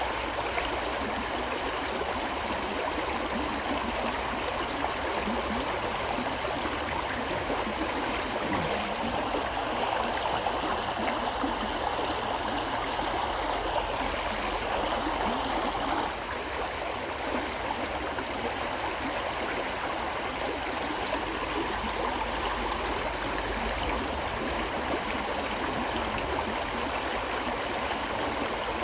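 River water flowing steadily over rocks, an even rushing and gurgling, with a slight drop in level a little past halfway.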